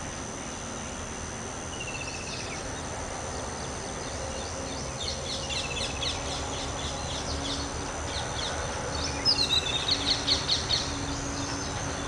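Birds chirping in short series of quick notes over a steady high-pitched whine, with a run of louder, sharp chirps near the end.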